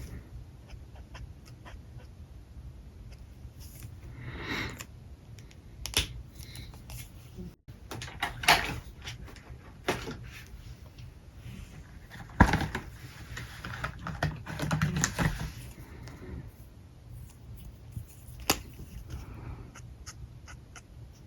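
Alcohol markers at work on paper: short scratchy strokes of the nibs, with a handful of sharp clicks and taps from handling the markers, over a steady low hum.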